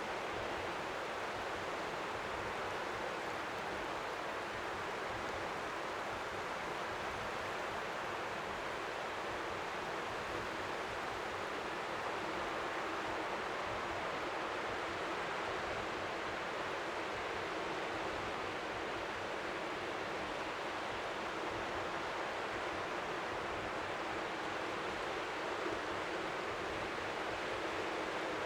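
Strong wind by the sea making a steady, even rush like white noise, with no low rumble. Small waves lapping the shore are faint beneath it.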